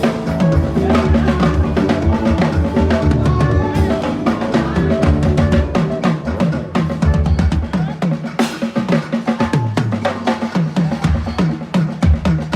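Drums played fast and busily, with dense snare-like strokes, rimshots and bass-drum hits. They sit over accompanying music with sustained pitched notes.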